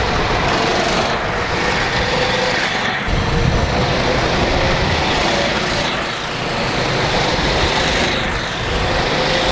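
Small petrol go-kart engines running hard as a group of karts takes off and drives around the track, with the pitch dropping as karts pass by a few times.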